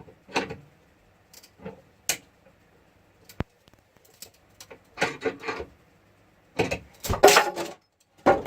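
Intermittent metallic knocks, clicks and clattering of a small car jack and timber being handled and positioned under a beam, with a louder cluster of clatter about seven seconds in.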